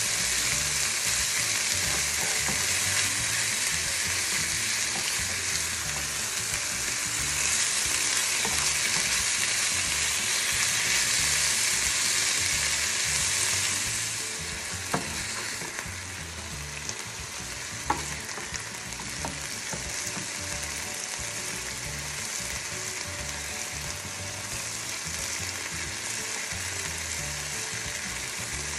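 Chicken pieces and chopped onion sizzling in a nonstick frying pan, stirred and scraped with a spatula. The sizzle eases a little about halfway through, and there are two sharp clicks soon after.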